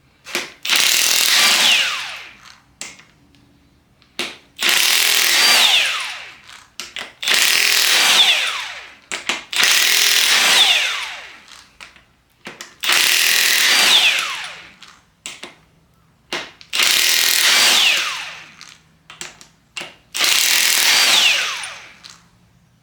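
Impact wrench run in seven bursts of about two seconds each, breaking loose tight 17 mm bolts on a Nissan VG30DETT engine's bottom end; each burst falls in pitch and fades as the tool winds down.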